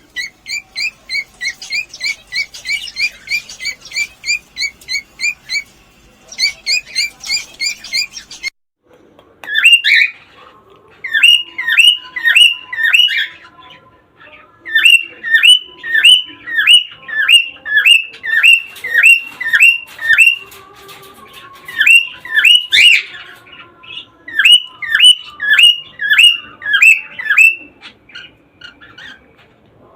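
Cockatiels calling: a fast, even run of short chirps, about two or three a second, then after a sudden break about eight seconds in, louder down-slurred calls repeated in runs of several, about two a second.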